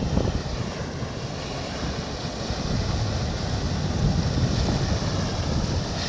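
Wind buffeting the microphone on a moving motorcycle, a steady noisy rumble with no clear engine note.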